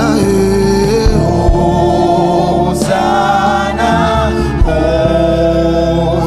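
Gospel worship chant: voices singing long held notes over steady instrumental backing, with a few low drum hits.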